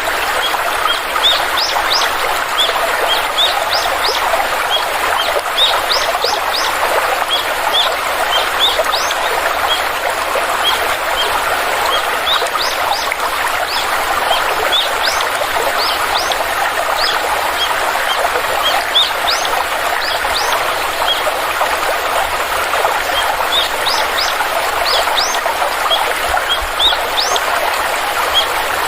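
Stream water flowing and trickling steadily, with many short, high, rising bird chirps over it.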